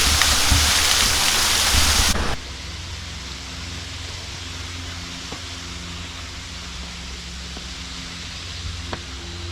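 Rushing water of a park waterfall, a loud steady roar that cuts off abruptly about two seconds in, leaving a much quieter steady wash of water and background hum.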